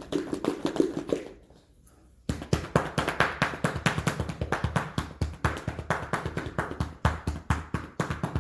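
A fast, uneven run of sharp taps, about five a second, starting about two seconds in after a short faint sound.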